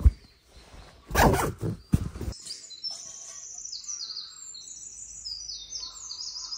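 Small songbirds singing: a busy run of short, high, falling notes that starts about two and a half seconds in. Two brief louder noises come just before it, near the start.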